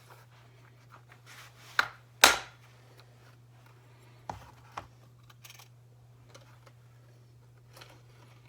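Carburettor parts and hand tools being handled on a bench: a few light clicks and knocks, the sharpest about two seconds in, with faint scraping and a steady low hum underneath.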